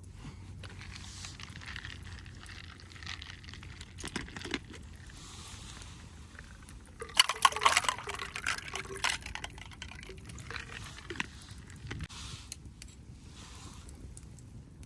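A drink being poured into a cup, with the loudest, crackly stretch of the pouring about seven seconds in.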